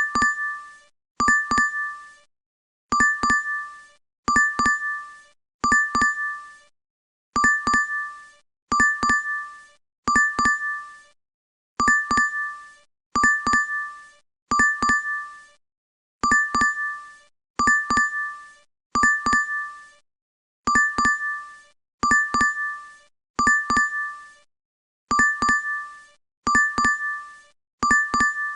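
DoorDash app notification chime: a quick two-note ding, repeated over and over about every second and a half, each chime fading within about a second.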